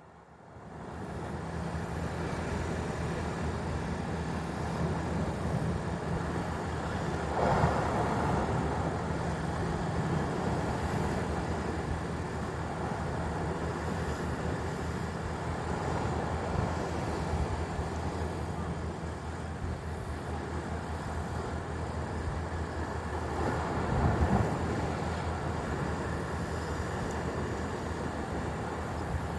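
Waves breaking and wind rushing, with wind rumbling on the microphone; a steady wash of noise that swells louder twice as bigger waves come in.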